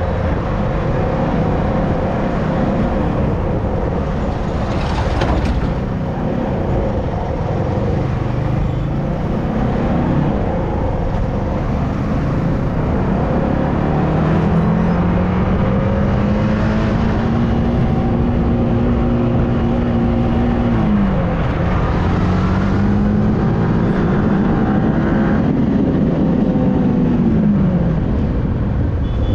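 Yamaha R15M motorcycle riding at speed, its engine note buried in heavy wind rush on the microphone. About halfway through the engine pitch climbs steadily, drops sharply as it shifts up, then climbs again and falls away near the end.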